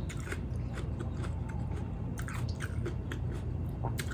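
Close-up chewing of a large raw green chili pepper dipped in ssamjang, with irregular mouth clicks throughout.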